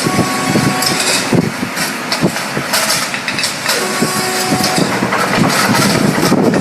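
FH36 tin-can body welding machine running: a steady mechanical clatter with many sharp clicks. A faint steady tone is held for about a second near the start and again a little past the middle.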